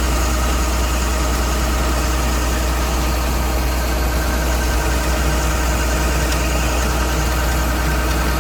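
Rice harvester engine running steadily, a constant deep hum with no change in speed.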